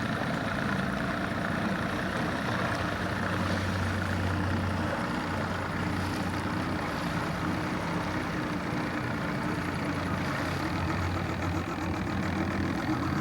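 Motorboat engine running steadily at low speed, a constant low hum.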